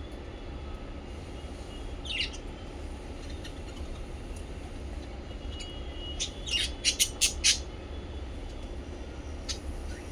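Small pet parrots chirping: a single falling chirp, then a quick run of sharp chirps and one more near the end, over a steady low rumble.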